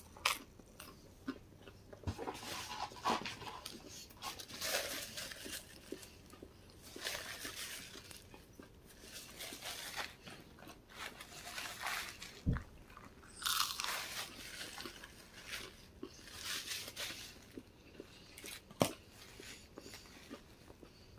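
Close-up chewing and biting of crispy McDonald's chicken nuggets: irregular crunching bursts and small mouth clicks with short pauses between, and one sharper click near the end.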